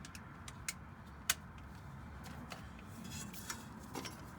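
A few faint, sharp clicks and light taps of a hand tool being handled and fitted, with a brief scrape about three seconds in.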